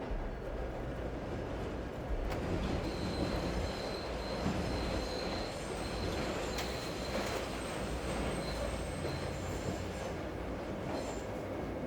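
A train rolling past with a steady rumble, its wheels giving a thin, high, steady squeal for several seconds in the middle.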